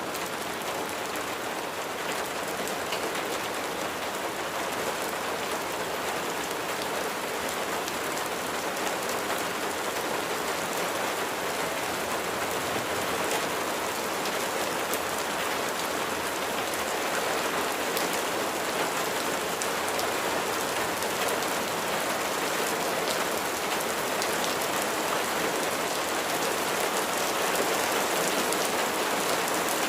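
Steady rain falling, an even hiss with individual drops tapping through it, growing slightly louder toward the end.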